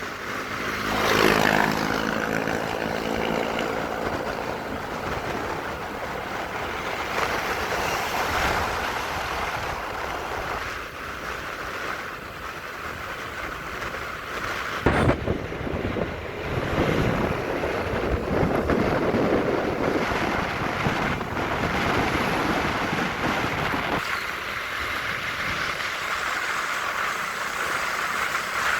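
Motorcycle riding noise: wind rushing over the microphone mixed with engine and traffic noise, steady with abrupt changes about halfway through and again later.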